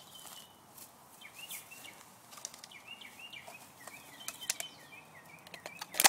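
A bird chirping in a run of short repeated notes, a few each second, over quiet outdoor background, with scattered faint clicks.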